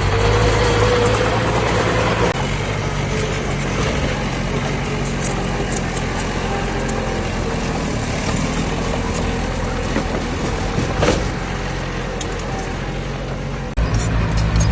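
Diesel engine of heavy earthmoving machinery running steadily, a low drone with rattle and noise over it. There is a sharp knock about eleven seconds in, and the sound changes abruptly near the end.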